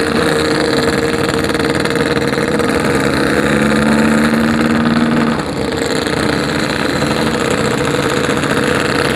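Yamaha RX-King's single-cylinder two-stroke engine running under way, with steady throttle, then easing off about five and a half seconds in. The rider puts its slightly stuttery low end down to a carburettor set too rich.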